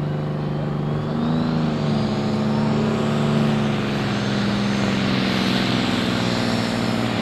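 Pro Stock pulling tractor's turbocharged diesel engine running hard at steady high revs. A high turbo whine climbs in pitch over the first few seconds, then holds.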